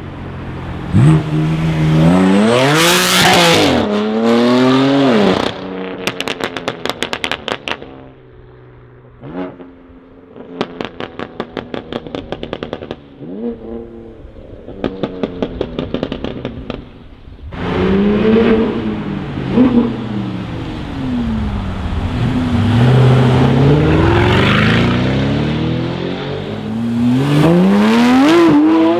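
Several sports cars accelerating hard away one after another, each engine revving up in rising sweeps. Between the runs come stretches of rapid, stuttering pulses, typical of exhaust crackle or a rev limiter. Near the end a Porsche 911 GT3's flat-six revs up as it pulls away.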